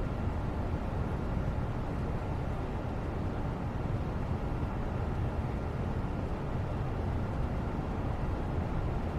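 Steady background noise, a constant low rumble with a softer hiss above it and no distinct events.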